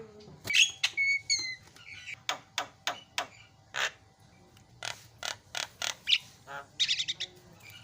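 Javan myna (jalak kebo) singing: a rapid run of sharp clicks and harsh chips, mixed with a few short whistled notes and a harsh buzzy call near the end.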